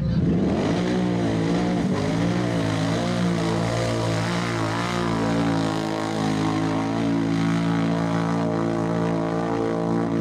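ATV engine running hard at high revs, its pitch rising and falling for the first half and then holding at a steady drone.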